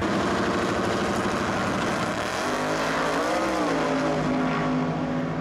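A muscle car engine running hard under full throttle, its pitch dropping about two and a half seconds in and then holding steady at a lower pitch.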